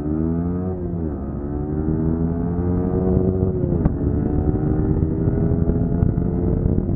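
Yamaha R15 V3's single-cylinder engine pulling at full throttle, its pitch climbing through each gear and dropping sharply at upshifts about a second in, near four seconds in, and again at the end.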